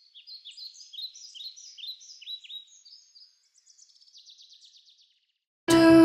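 Small songbird chirping: a string of short, high, falling notes, then a fast trill. Near the end, louder piano music starts.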